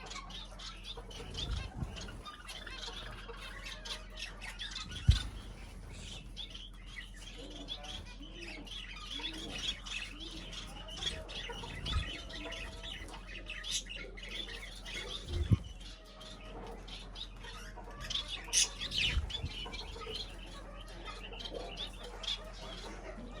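Small cage birds chirping and squawking in a busy stream of short calls, with wing flutters and several dull thumps.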